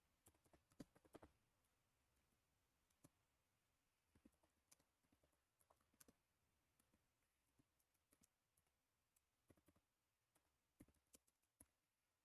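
Near silence broken by faint, irregular computer keyboard and mouse clicks, with a quick cluster about a second in, scattered single clicks after, and a few more near the end.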